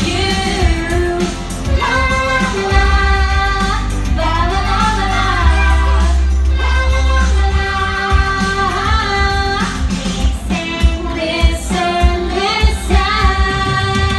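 A song with backing music: a high sung voice holding long notes and sliding between pitches over a steady bass line.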